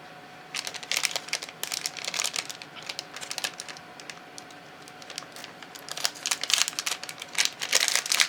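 Packaging crinkling as packets of craft flowers are opened by hand, in two spells: from about half a second to three and a half seconds in, then again, denser, from about six seconds on.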